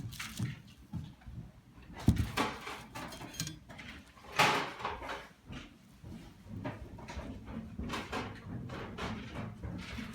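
Metal parts of a split bearing being handled and taken apart by hand: irregular scraping and clinking, with a couple of sharp knocks about two seconds and four and a half seconds in.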